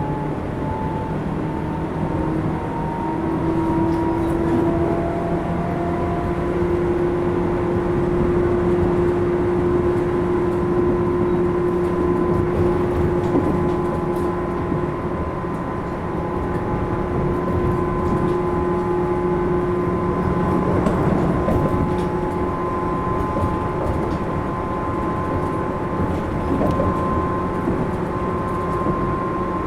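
Running sound inside a Tobu 10000 series motor car: traction motor and gear whine over the rumble of wheels on rail. The whine climbs slowly in pitch over the first few seconds as the train gathers speed, then holds steady at cruising speed.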